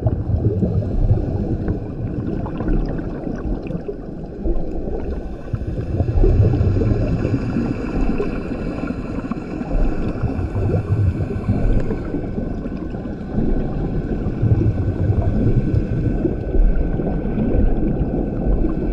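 Scuba diver breathing through a regulator underwater, a steady rush with a louder bubbling surge from each exhalation about every four to five seconds.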